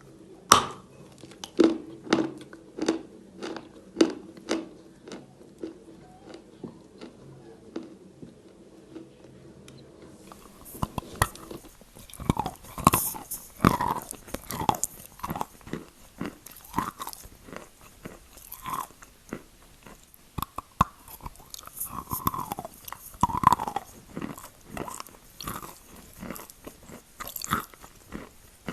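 Chalk being bitten and chewed close to the microphone, crisp crunches. For the first ten seconds the chewing crunches come about twice a second and fade. Then louder, irregular bites and crunches follow.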